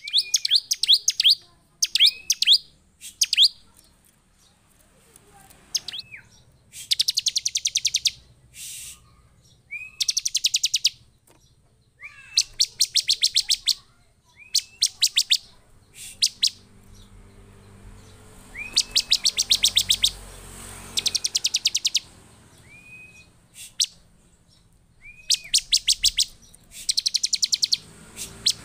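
Bar-winged prinia (ciblek) singing in excited, repeated phrases. Each phrase is a short whistled note followed by a fast, dry trill of ticking notes, about a second long.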